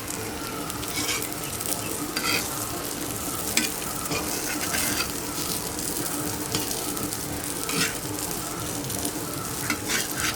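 Chicken samosas shallow-frying in a little oil on a flat tawa, a steady sizzle, with several short clicks of a utensil against the pan as they are turned.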